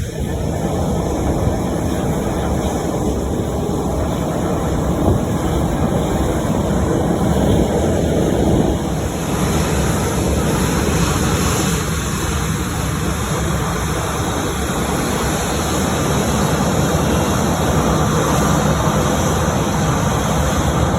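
Jet airliner engines, a steady roar that grows a little brighter about nine seconds in.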